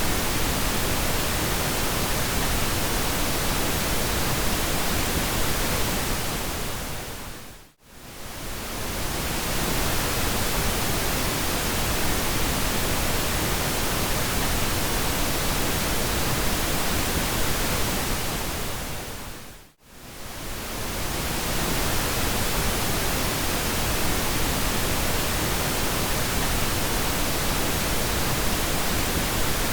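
Pink noise: a steady, even hiss. It fades briefly to near silence and back in twice, about 8 seconds in and again about 20 seconds in.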